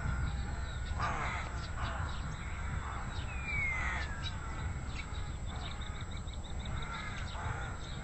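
Wild birds calling: a few harsh, squabbling calls, a clear whistle that falls in pitch about three and a half seconds in, and small high chirps, over a steady low rumble.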